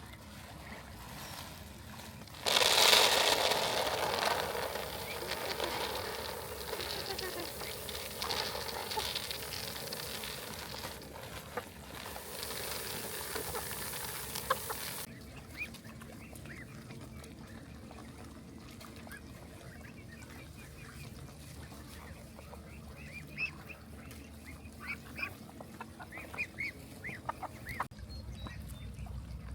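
Domestic waterfowl calling. A loud rushing noise starts about two and a half seconds in and stops suddenly about halfway through, followed by scattered short calls.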